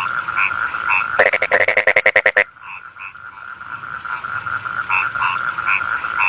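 Rice-field frogs calling in chorus: a steady trilling drone with scattered short croaks. About a second in, a loud, rapid pulsed croak of roughly ten pulses a second comes in and cuts off abruptly after about a second and a half.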